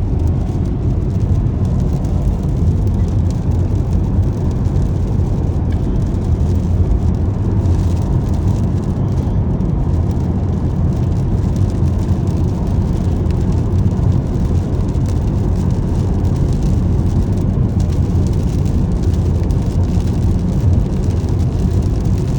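Steady low road and tyre rumble of a Tesla Model S Plaid electric car cruising at highway speed on a wet, bumpy road, heard from inside the cabin, with no engine note.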